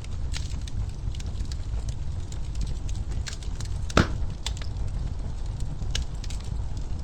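Wood fire crackling in a fireplace: a steady low rumble of flames with scattered sharp snaps, and one louder pop about four seconds in.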